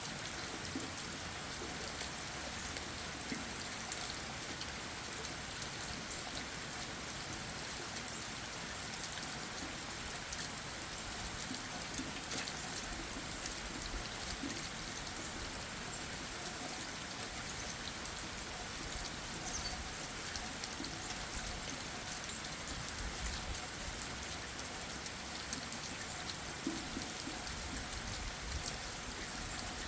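Steady rain falling on leaves and the forest floor, with many individual drops tapping.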